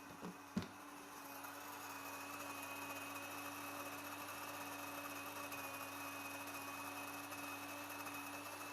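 WonderMill electric grain mill running steadily as it grinds wheat into flour, a constant hum with a high whine. A few short knocks come in the first second, and the grinding noise builds a little after that.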